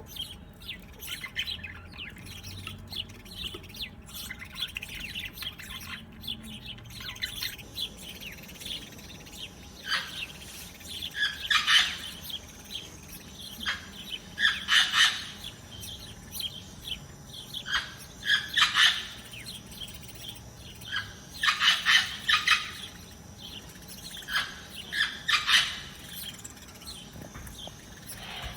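Songbirds chirping, with many quick small calls at first, then from about ten seconds in louder bursts of rapid repeated chirps every few seconds.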